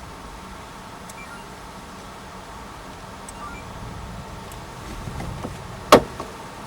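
Steady background noise with a few faint ticks, then a single sharp click about six seconds in.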